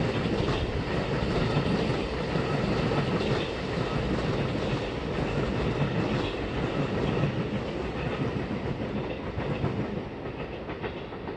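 JR West Tokaido Main Line rapid electric train running along the tracks, its wheels rumbling and clicking over the rails. It grows quieter near the end as it draws away.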